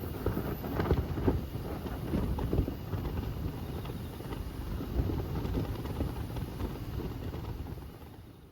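Strong wind buffeting the microphone in irregular gusts, a low rumble that fades out near the end.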